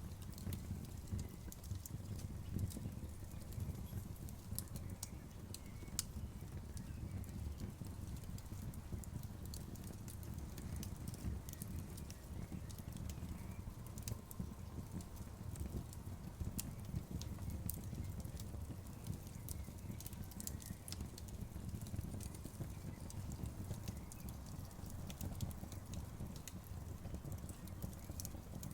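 Outdoor bonfire burning: a steady low rumble of the flames with scattered sharp crackles and pops.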